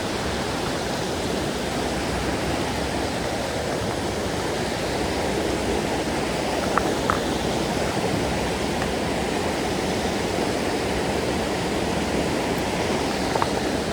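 Steady rushing of a mountain stream's flowing water, with two light clicks about halfway through.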